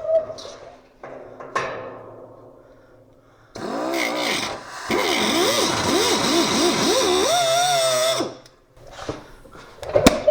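Cut-off tool fitted with a worn cutoff wheel, spinning up briefly a couple of times, then running for several seconds, its pitch wavering up and down as it cuts sheet metal.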